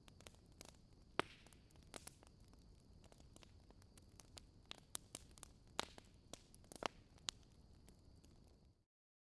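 Wood bonfire crackling: irregular sharp pops and snaps, a few a second at most, over a faint steady hiss with a thin high tone. The sound cuts off abruptly to dead silence near the end.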